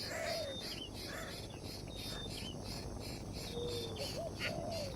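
Steady insect chorus pulsing high at about four beats a second, with short bird calls and chirps over it near the start and again toward the end.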